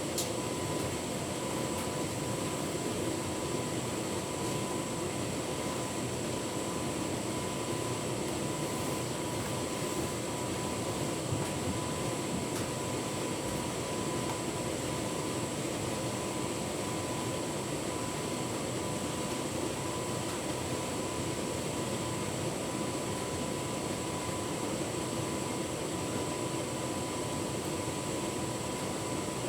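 Tumble dryer running a full load of bedding on its anti-allergy programme: a steady whir of the turning drum and blower fan, with a faint steady high tone over it.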